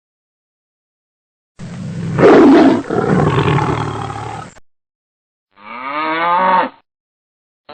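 A big cat roaring once for about three seconds, followed about a second later by a shorter animal call that rises slightly and then falls in pitch.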